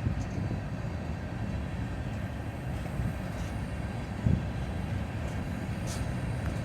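Norfolk Southern freight train rolling by: a steady low rumble of wheels on the rails, with a sharp thump at the start and another about four seconds in.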